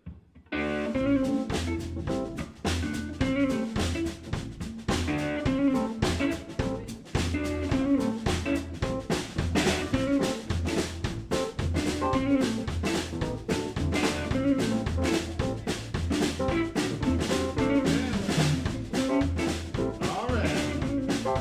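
Live blues band of drum kit, bass, guitar and keyboard kicking straight into an instrumental intro about half a second in, with the drum kit prominent throughout.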